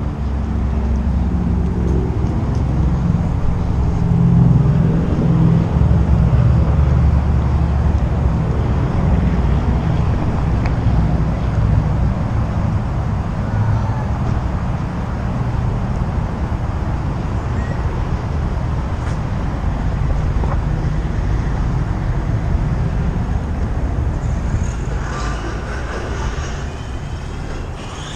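Car driving along at road speed, heard from inside the cabin: a steady low engine drone with tyre and road noise.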